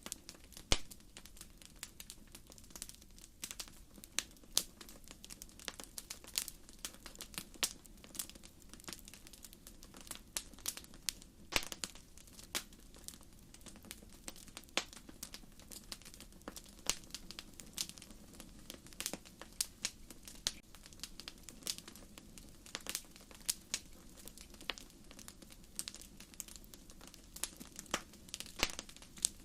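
Wood campfire burning, its firewood crackling and popping in frequent irregular sharp snaps over a low steady rush of the flames.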